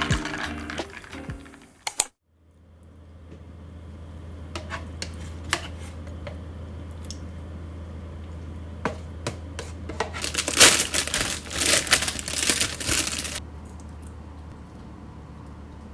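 Background music that cuts off about two seconds in, followed by a steady low hum with scattered light clicks and knocks, and about three seconds of rustling and crinkling in the second half, like items and packaging being handled.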